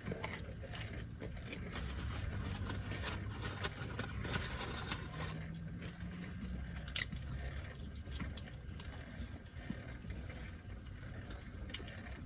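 Someone eating and chewing food, with short irregular clicks and crunches, over a low steady rumble of vehicles.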